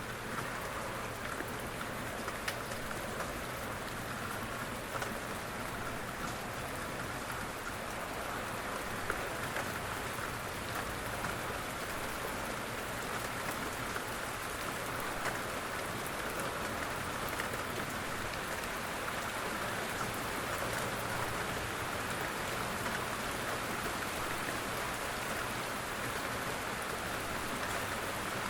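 Steady rain falling, an even hiss scattered with faint drop ticks.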